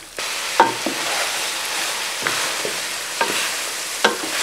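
Mutton pieces frying in masala in a metal pot, a steady sizzle that comes up just after the start, with a wooden spoon scraping and knocking against the pot a few times as the meat is stirred and turned.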